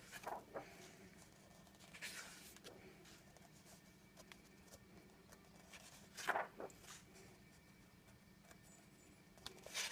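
A few brief rustling swishes of coloring-book paper pages being turned or handled, the loudest about six seconds in, between quiet stretches of room tone.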